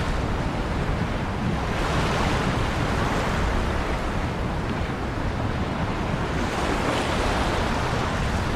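Ocean waves breaking and washing in, a steady rush of surf that swells twice, with a low rumble of wind on the microphone.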